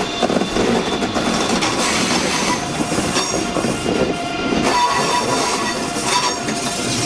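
An ICE high-speed electric multiple unit rolls slowly past, its wheels clattering over rail joints and points. A thin steady whine runs over the rumble of the train.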